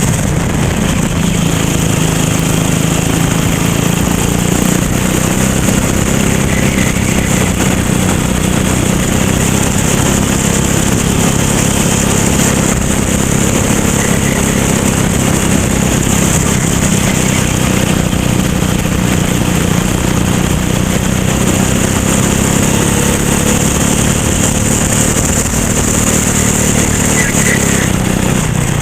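Racing kart engine running continuously at race pace, its pitch drifting up and down a little with the throttle, with a steady hiss over it.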